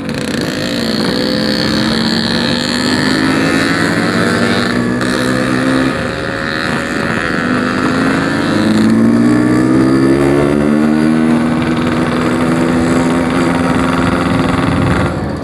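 Yamaha RX-King's two-stroke single-cylinder engine, bored out to 150, under acceleration: the revs climb, drop at a gear change about six seconds in, climb again, then hold steady.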